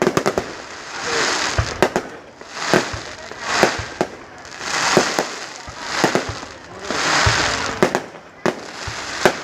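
Fireworks display: a quick series of aerial bursts, each a sharp bang followed by a swelling crackle, coming about once a second.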